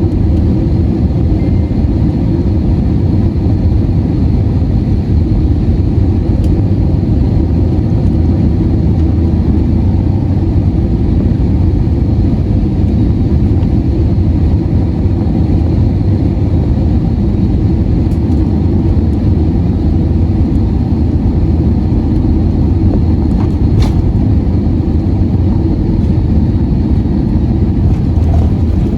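Steady deep rumble of engine and air noise inside the passenger cabin of an Airbus A321-231 (IAE V2500 engines), with a faint click late on.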